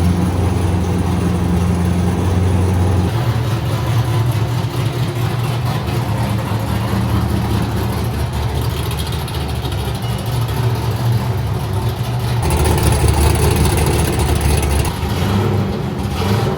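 Drift car's engine running loudly, a steady low drone for about the first three seconds, then shifting in pitch and level. It grows louder with an added hiss between about twelve and fifteen seconds in.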